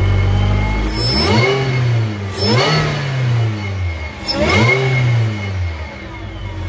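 Supercharged Volkswagen Scirocco engine idling, then revved three times, each rev rising sharply and dropping back to idle. The revs build boost that swells the intake boots.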